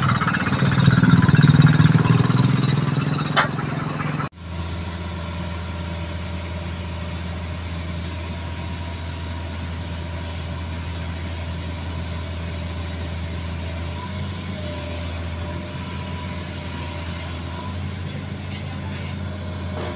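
Heavy diesel truck engine running, loud for the first four seconds. It then cuts off abruptly to a steady, lower engine drone.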